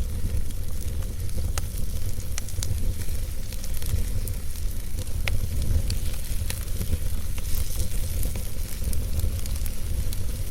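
Wood fire burning in a fireplace: a steady low rumble and hiss of the flames, with sharp crackles and pops from the burning logs every second or so.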